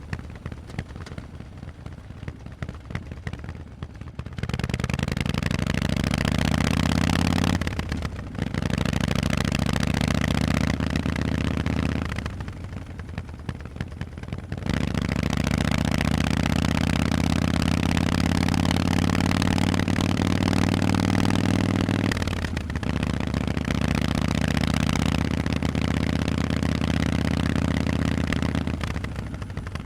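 Harley-Davidson Forty-Eight's V-twin through Vance & Hines exhausts, ridden under throttle. After a few quieter seconds it opens up four times, each pull climbing in pitch, with short drops in between as the throttle is rolled off or a gear is changed.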